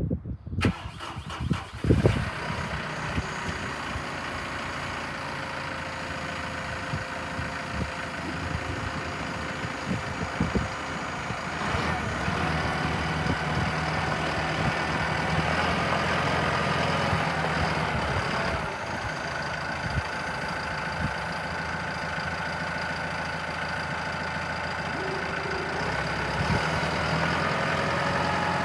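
Kubota M5-111 tractor's diesel engine running steadily, a few sharp knocks in the first couple of seconds. The engine grows louder about twelve seconds in, eases off a little around eighteen seconds, then builds again near the end.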